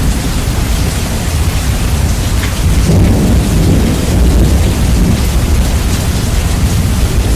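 Heavy rain with thunder, the low end heavily bass-boosted so the rumble dominates; a thunder roll swells about three seconds in.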